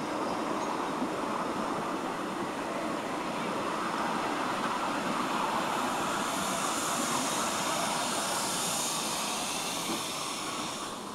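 Narrow-gauge train running on the line, a steady rumble with a hiss that swells in the second half.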